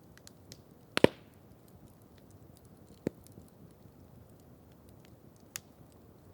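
Wood campfire crackling: scattered faint ticks and a few sharp pops, the loudest about a second in, a smaller one around three seconds and another near five and a half seconds, over a low steady hiss.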